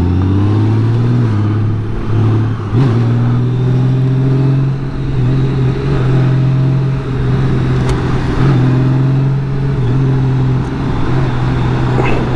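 2018 Honda Gold Wing's flat-six engine running under way, rising in pitch over about the first second and then holding a steady note with a few brief dips.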